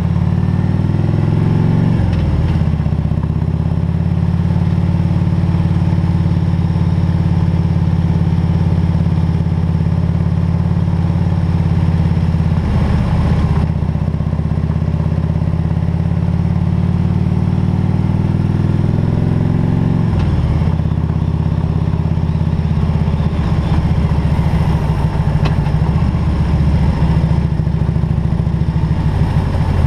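Harley-Davidson Road King's V-twin engine pulling under way, its pitch climbing as it accelerates and dropping at gear changes about 2, 13 and 20 seconds in.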